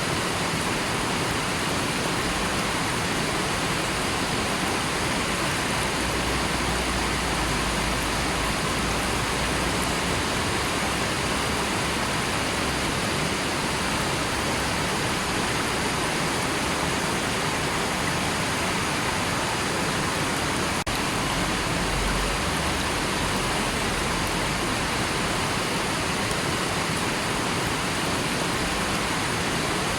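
River water rushing and flowing in a steady, even wash of noise.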